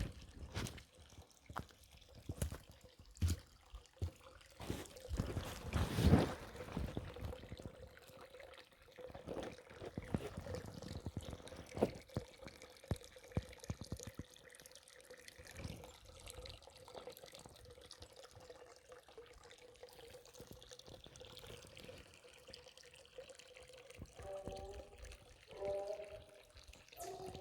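Creek water trickling and dripping, with scattered knocks throughout that are strongest in the first half. A few short pitched sounds come near the end.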